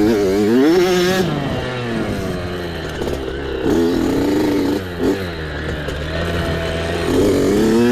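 Small dirt bike engine revving hard and easing off again and again, its pitch climbing and dropping every second or two with the throttle.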